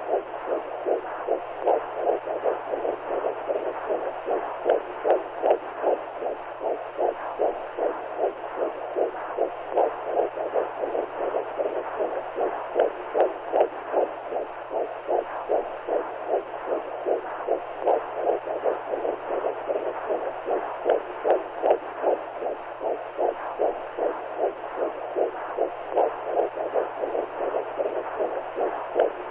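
Womb sound for soothing a newborn: steady, even, rhythmic whooshing pulses like a mother's heartbeat and blood flow heard from inside the womb, over a constant low hum.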